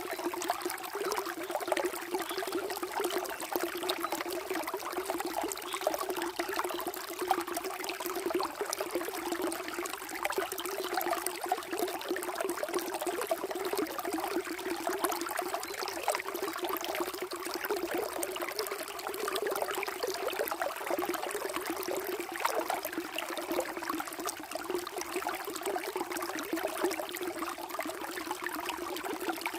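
Water flowing and trickling steadily, a continuous even splashing with no pauses.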